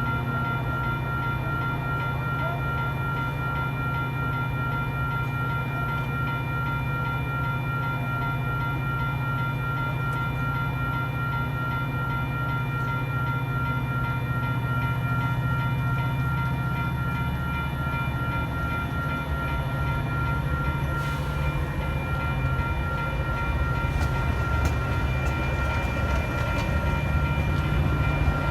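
Metra diesel locomotive running steadily: a low engine rumble with steady high tones over it, growing slightly louder near the end.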